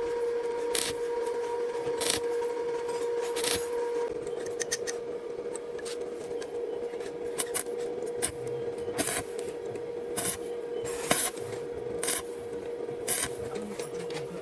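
Rasping strokes of a hand tool, roughly one a second, over a steady hum.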